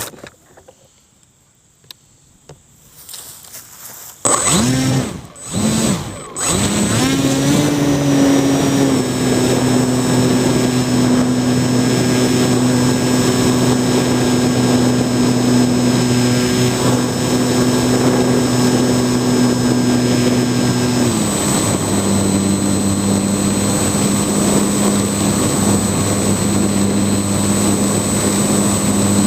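UAV's motor and propeller spinning up. After a few quiet seconds come two short throttle blips, rising and falling in pitch. It then climbs to a steady humming drone that holds, dropping a little in pitch about three-quarters of the way through.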